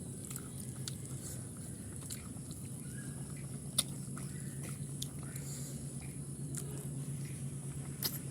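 Close-up eating sounds: chewing and biting into pork curry, with scattered small wet clicks and smacks, over a steady low hum.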